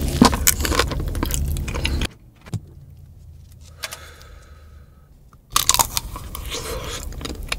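Close-miked eating sounds: wet chewing and sharp mouth clicks on a mouthful of burrito bowl, over a low rumble. After a quieter stretch of about three seconds in the middle, crackly clicks from biting and chewing a chocolate-and-nut-coated ice cream cone.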